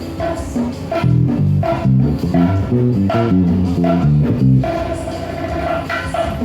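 Forró band playing, with the electric bass guitar out front and its notes stepping up and down in a busy line, over a repeating mid-pitched melody and steady percussion ticks.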